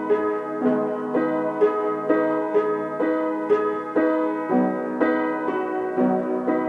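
Piano playing a melody in the middle of the keyboard, single notes struck at an even pace of about two a second in a repeating figure.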